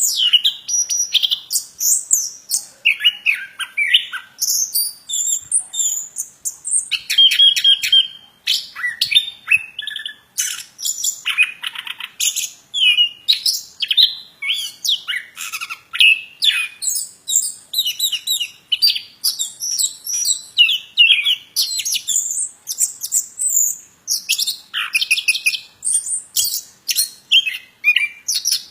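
A plontang songbird singing nonstop in full voice: a rapid, varied stream of high chirps, whistled notes and trills with hardly a pause.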